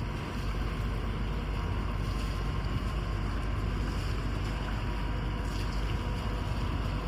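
Engine of a docked harbor water taxi idling with a steady low rumble and a faint steady hum, with wind buffeting the microphone.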